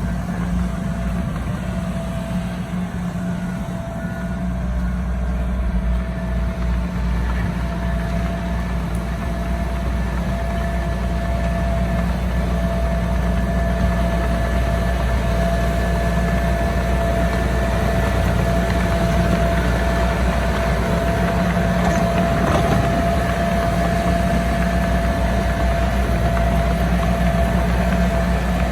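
Heavy diesel engine of a bulldozer or dump truck running steadily, with a steady whine above the low engine drone; it grows a little louder after about six seconds.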